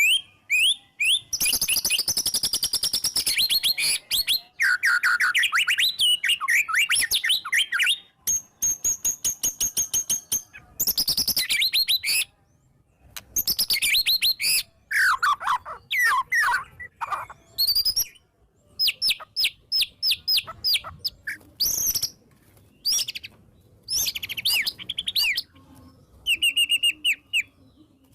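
White-rumped shama (murai batu) singing a loud, varied song in phrases broken by short pauses, mixing rising and falling whistles with fast runs of rapidly repeated notes.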